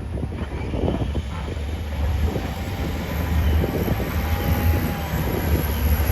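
John Deere 770G motor grader's diesel engine running under load while it plows snow, a heavy low rumble that grows a little louder.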